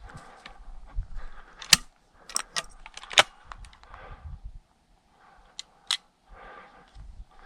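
Footsteps scrambling up rocky, loose ground, with scuffing and several sharp clicks of stones knocking together, the loudest about two and three seconds in.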